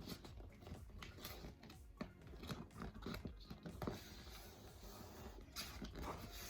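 A thin sheet of paper being folded and creased by hand, with irregular faint crinkles and rustles.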